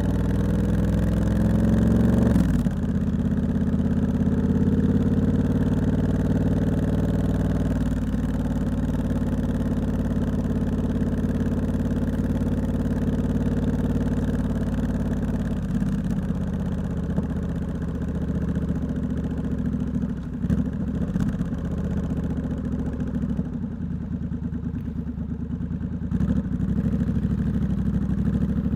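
Triumph Scrambler 1200X parallel-twin running through a loud Hitchcox aftermarket exhaust: the revs climb, drop sharply at a gear change, climb again, then settle to a low, steady run with a few knocks before picking up near the end.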